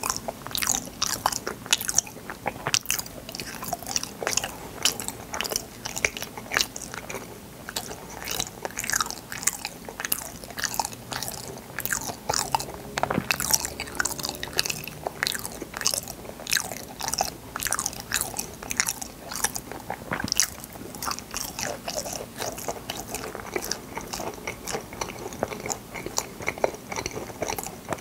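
Close-miked mouth sounds of someone biting and chewing fruit yanggaeng, a Korean jellied dessert: a steady run of quick, sharp clicks with no pauses.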